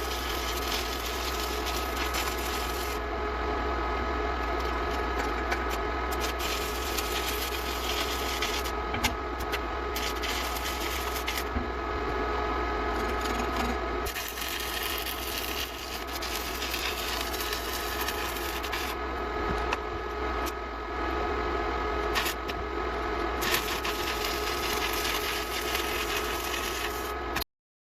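Sped-up metalworking noise from building a steel frame: a continuous buzzing, hissing run whose high hiss drops out and returns every few seconds, cutting off suddenly near the end.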